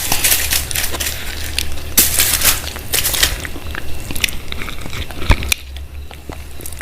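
A person biting and chewing food close to the microphone: irregular bursts of mouth noise, with a sharp click about five seconds in.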